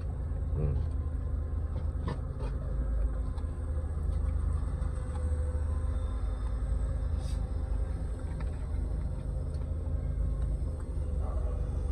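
Steady low rumble of a running vehicle engine, with a faint steady hum above it and a few soft clicks.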